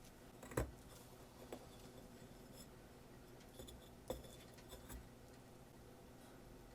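A few sharp clicks and light knocks of small hard objects, the loudest about half a second in and another about four seconds in, over a quiet background.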